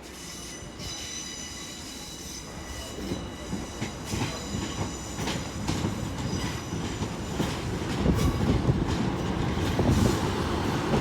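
A Class 150 Sprinter diesel multiple unit pulls into the platform. Its wheels and brakes squeal in several steady high tones, with sharp knocks from the wheels passing over rail joints, and it grows steadily louder as it approaches.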